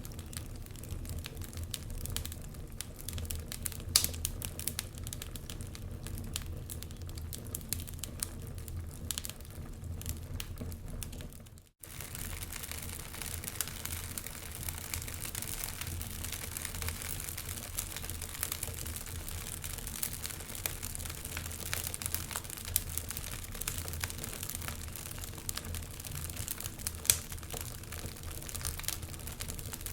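Wood fire crackling in a fireplace: a dense run of small pops and snaps with an occasional sharper pop. The sound cuts out for a moment about twelve seconds in, then resumes.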